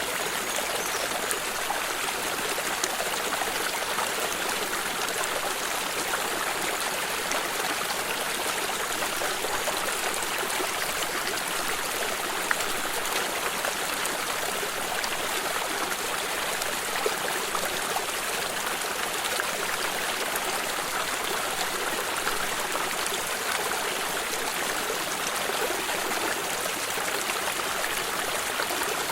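A flowing stream: a steady rush of moving water with fine trickling and splashing.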